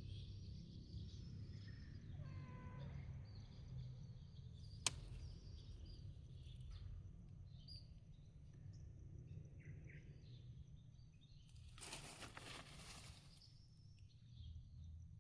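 Faint ambience of small birds chirping, with a cat meowing once about two seconds in. A sharp click comes near five seconds, and a short burst of rushing noise lasting about a second and a half comes near twelve seconds.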